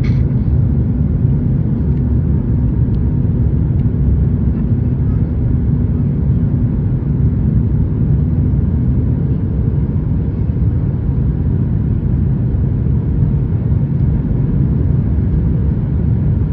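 Steady low cabin rumble of a Boeing 737 MAX 8 on descent, a mix of engine and airflow noise heard from inside the cabin. A faint hum within it moves to a higher note about halfway through.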